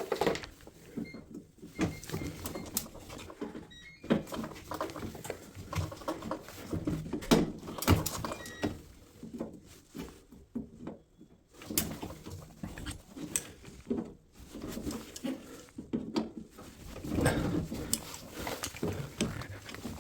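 Irregular knocks, clicks and clatter of hands and tools working on a drum washing machine's parts, with no steady machine sound.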